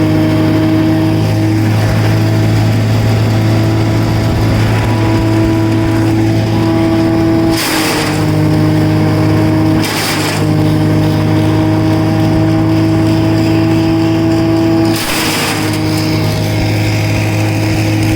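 Wood Chuck wood chipper's engine running steadily at constant speed, with a brief rush of noise three times, about 8, 10 and 15 seconds in.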